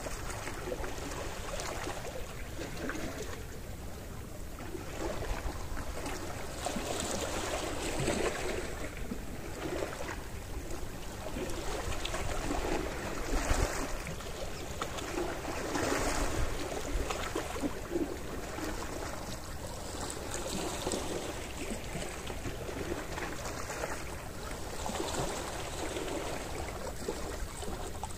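Gentle sea waves washing onto the shore, swelling and falling back every few seconds, with a steady low rumble under them.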